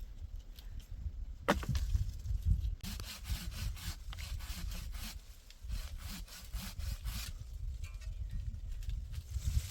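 Hand saw cutting through wood in runs of quick back-and-forth strokes, with short pauses between runs.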